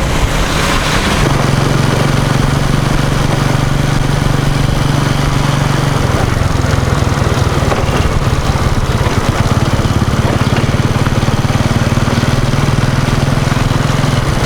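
A small engine running steadily, its hum changing a little about six seconds in.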